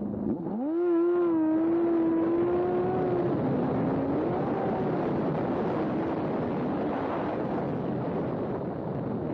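A vehicle engine revs up sharply about half a second in and holds a high, steady pitch for about three seconds. It then drops and wavers, over constant road and wind noise.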